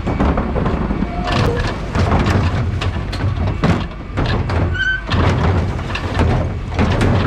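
Dennis Elite 6 refuse truck running with a steady low rumble, its cab and body rattling and clunking over the road. A short electronic beep sounds about five seconds in.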